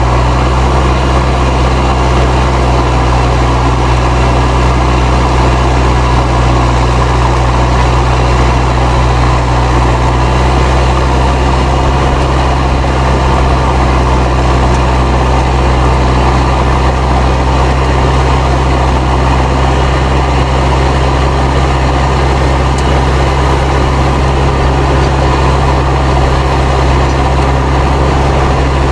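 Fendt 307 Ci tractor's turbocharged diesel engine running steadily under ploughing load, its turbocharger whistling over a deep, even engine hum.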